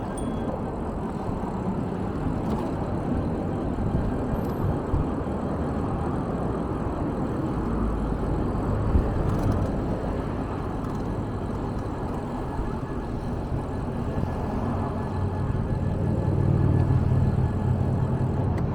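Steady running noise of a motor vehicle, with a stronger low rumble near the end.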